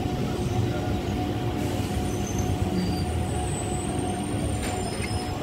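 Bangaon–Canning EMU local train running, a steady rumble with a held steady tone over it and a brief hiss about three-quarters of the way in.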